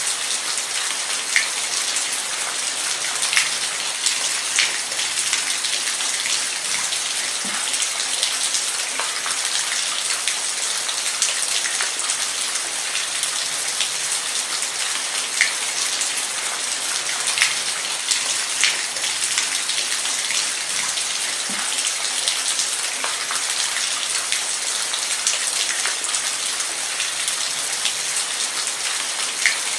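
Steady rainfall, a dense even hiss with close drops ticking individually on a surface every second or so.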